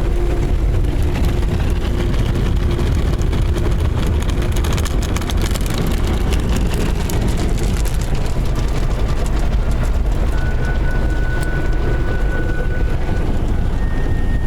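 Automatic car wash running over the car, heard from inside the cabin: a steady loud rumble and rush of water and machinery, with a dense spell of spattering on the body in the middle. A thin steady whine comes in during the last few seconds.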